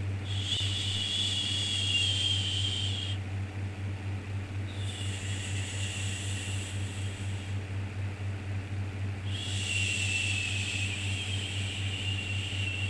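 Looped 'shhh' shushing sound for soothing a baby: three long shushes, each about three seconds, coming about every four and a half seconds, over a steady low hum.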